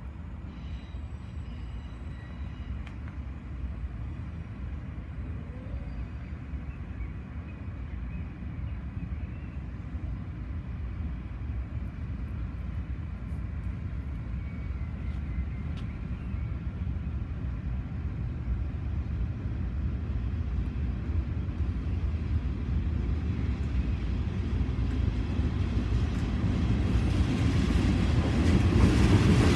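A pair of DXC class diesel-electric locomotives running with a low, steady engine rumble that grows steadily louder, loudest near the end.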